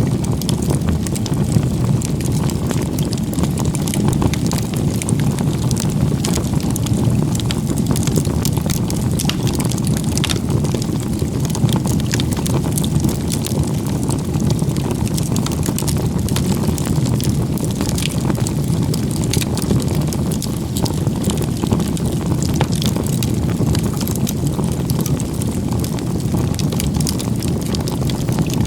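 Firewood burning in a log-cabin (igeta-gumi) crib stack: a steady low rush of flame with frequent small crackles and pops from the wood.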